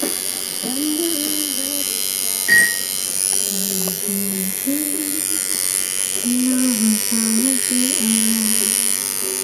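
Electric tattoo machine buzzing steadily as it runs, with a slow melody playing underneath and a single click about two and a half seconds in.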